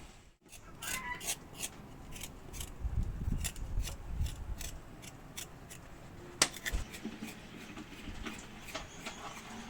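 A cooking spoon scraping and clicking against a pot as the freshly added peas are stirred, with a sharp knock about six seconds in.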